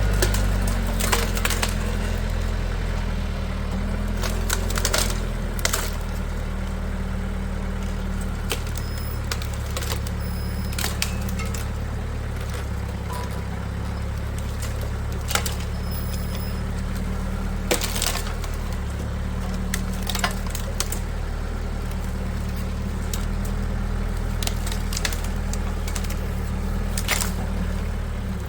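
A large engine running steadily at low revs, with scattered sharp cracks and snaps of breaking wood over it, as dead trees are pulled down and cleared.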